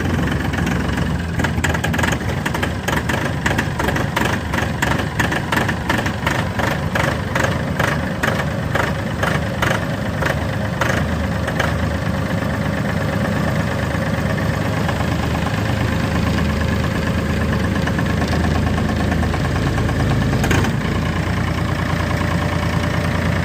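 Massey Ferguson 2606H tractor's diesel engine idling just after a cold start. It runs with a rough, evenly spaced knock for about the first twelve seconds, then settles into a smoother, steady idle.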